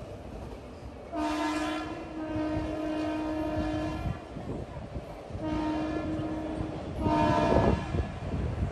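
Indian Railways locomotive horn sounding three blasts, a long one of about three seconds then two shorter ones, over the rumble of a train.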